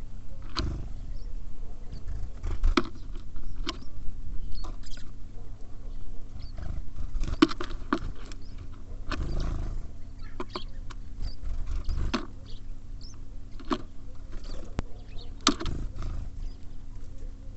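Small birds at a wooden feeder: irregular sharp taps and clicks of pecking and hopping on the boards, over a low rumble.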